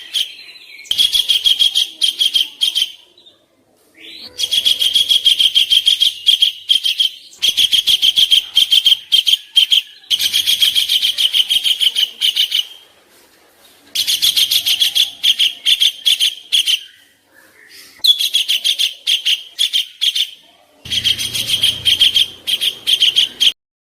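Songbird masteran recording of harsh 'kasaran' song material: phrases of rapid, sharp repeated notes about two to three seconds long, broken by short pauses, stopping abruptly just before the end.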